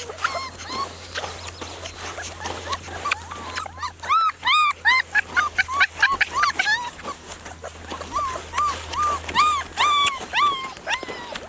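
Four-week-old German Shepherd puppies whimpering and yelping: many short, high squeals that rise and fall, several puppies at once, coming thick and fast in the middle and again near the end.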